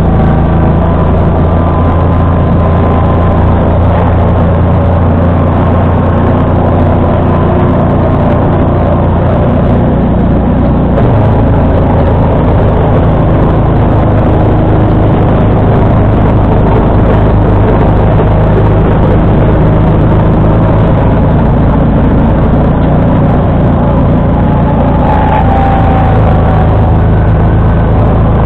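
John Deere 445 lawn tractor's V-twin engine and 47-inch snowblower running steadily while clearing snow, with a small change in the engine's low note about eleven seconds in.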